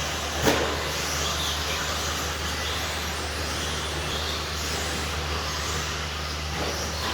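RC stadium trucks running around a track, their motors whining and rising and falling in pitch as they accelerate and brake. A single sharp knock comes about half a second in, as of a truck landing or hitting something.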